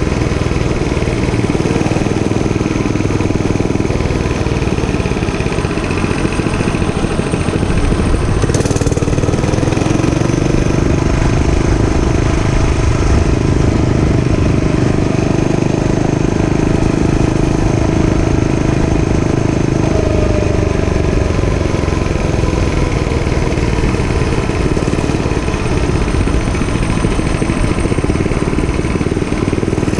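Dirt bike engine running steadily. Its pitch rises about a third of the way in, holds, then eases back down in the last third. A short knock is heard just before the rise.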